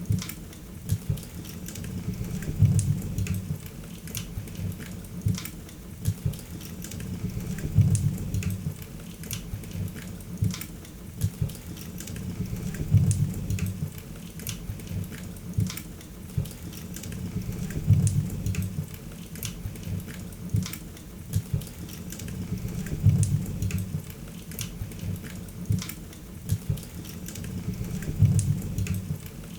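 Wood fire crackling and popping in a fireplace, with many sharp crackles over a low rumble that swells about every five seconds.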